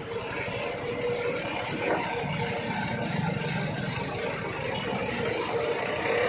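Truck engine running steadily at low speed, growing louder toward the end.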